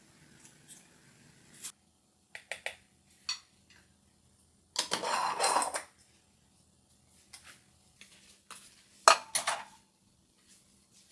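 Kitchenware being handled: dishes and utensils clinking and knocking in separate short strokes. A continuous rubbing noise lasts about a second near the middle, and a sharp clink about nine seconds in is the loudest.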